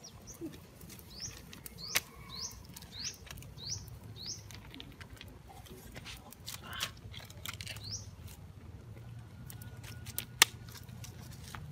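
A small bird chirping a short, high, hooked note over and over, about every half second, stopping a little before halfway. Scattered sharp clicks sound throughout, the loudest about ten seconds in.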